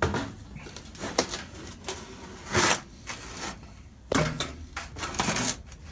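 Knocks and clatter of a heavy metal box fan being lifted and turned around by hand, with one longer rattle about halfway through.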